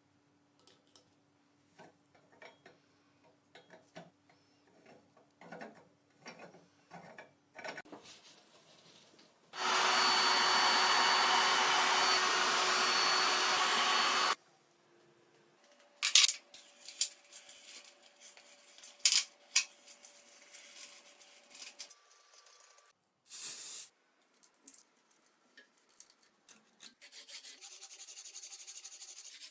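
Hand work with tools: scattered taps and knocks, a power tool running steadily for about five seconds in the middle, more knocks, then fast abrasive rubbing strokes near the end.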